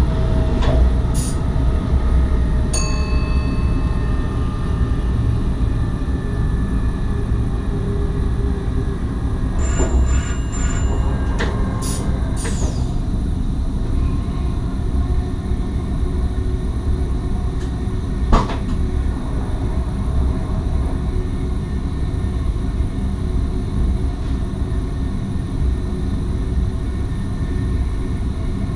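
NS SGMM Sprinter electric train running, heard inside the driver's cab: a steady low rumble of wheels on rail. A few short clicks and high tones come near the start and again about ten to twelve seconds in, with one sharp knock about eighteen seconds in.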